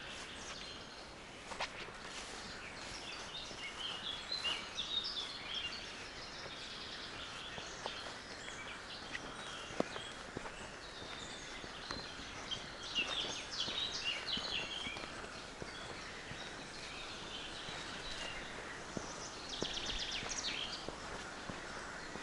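Songbirds singing in a few bursts of quick high chirps over steady outdoor background noise, with occasional footsteps of a walker.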